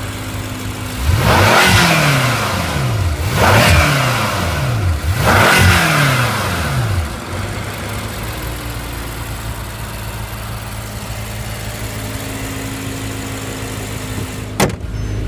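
BMW M5 F10's twin-turbocharged 4.4-litre V8 blipped three times in quick succession, each rev rising and falling back, then settling into a steady idle. A single sharp knock sounds near the end.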